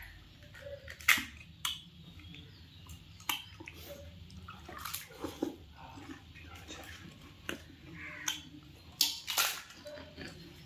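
Close-up eating of pani puri: crisp puri shells crunching between the teeth, with wet slurping and chewing of the spiced water. The loudest crunches come about a second in and again near the end.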